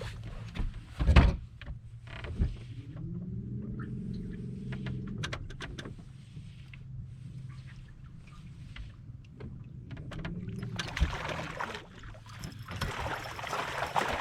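Sounds on a fishing boat: a few knocks and one heavy thump in the first seconds, over a steady low hum. A pitched tone bends up and down twice, and a noisy rush builds near the end.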